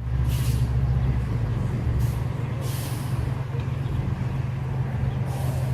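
Steady low rumble of a vehicle on the move, with a few short hissing bursts.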